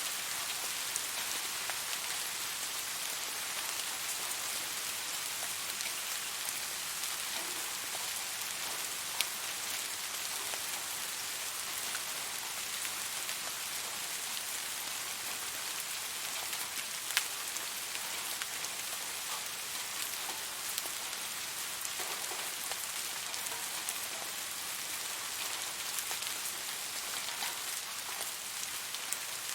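Steady rain falling on a surface, an even hiss with scattered sharper drop hits, two of them standing out about nine and seventeen seconds in.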